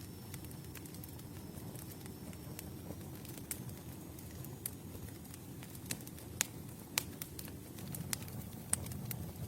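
Campfire burning: a steady low rumble of flames with scattered wood crackles and sharp pops, a few louder pops in the second half.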